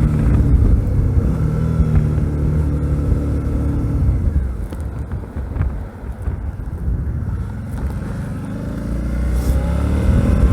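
Suzuki V-Strom DL650's V-twin engine running under way. It holds steady, eases off about four seconds in, then picks up again with rising pitch near the end.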